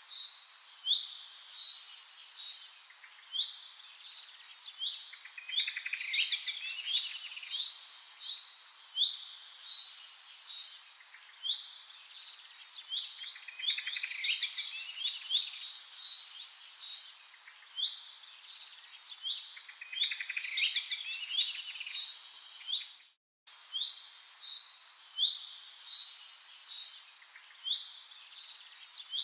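Songbird chirping and trilling in repeated phrases a few seconds apart. It cuts out completely for a moment about 23 seconds in.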